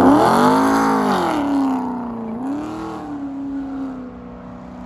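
A car engine comes off a hard rev, its pitch falling steeply. It picks up briefly again about two and a half seconds in, then holds a steadier note and fades as the car moves away.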